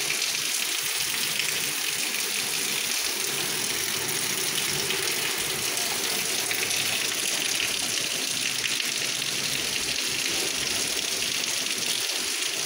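Heavy rain falling steadily on a flooded street and standing water: a dense, even hiss that holds without a break.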